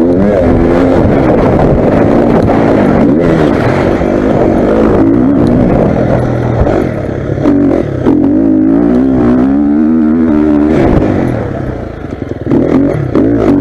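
Motocross bike engines revving hard, pitch climbing and dropping as the riders open and shut the throttle and shift, with more than one engine heard at once. The sound eases briefly near the end, then picks up again.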